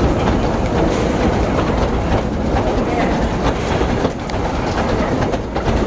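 Heritage train rolling along at steady speed, heard from an open carriage window: a continuous rumble of wheels on the rails with occasional clicks.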